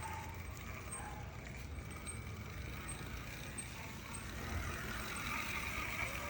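Small electric motor of a toy ride-on motorcycle running, a low steady whir with no sharp events.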